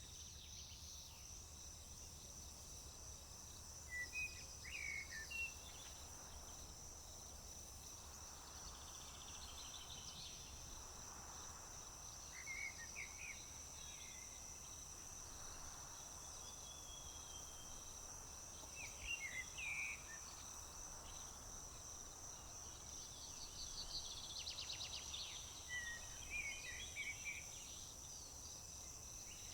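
Crickets chirping in a continuous high-pitched chorus, with short bird calls breaking in every several seconds and a quick trill about three-quarters of the way through.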